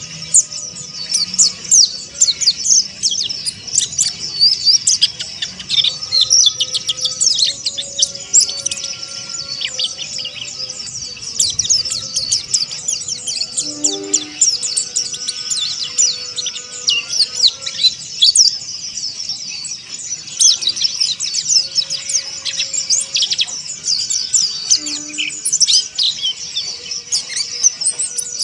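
Mountain white-eye (pleci monty) twittering in a rapid, unbroken chatter of high chirps and quick sweeping notes.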